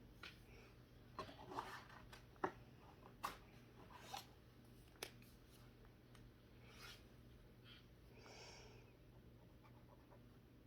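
Quiet handling of brush pens while coloring: several faint clicks and taps in the first five seconds, then a soft brushing sound about eight seconds in.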